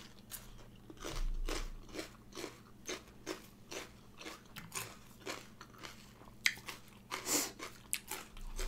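Close-miked crunchy chewing of a mouthful of raw bitter melon, about two crunches a second, with one louder crunch near the end.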